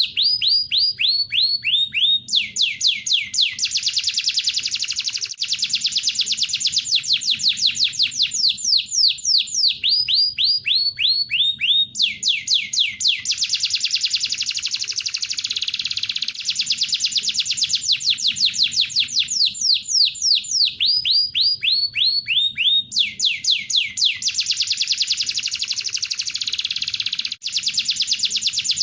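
Bird-song training recording layering tengkek buto kingfisher calls with domestic canary song. Runs of rapid, high, falling notes, each run stepping down in pitch and followed by a short pause, alternate with dense canary-like trilling.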